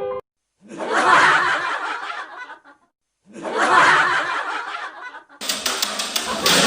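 A meme laughing sound effect: a burst of snickering laughter about two seconds long, played twice with a short silence between. A music clip with drum hits starts near the end.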